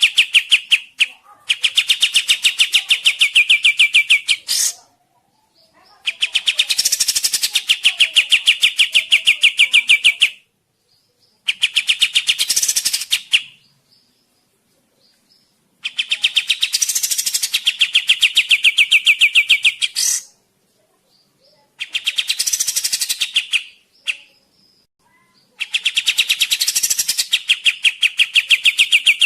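Songbird chattering in a rapid, evenly pulsed trill, repeated in bouts of a few seconds with short silent gaps between them.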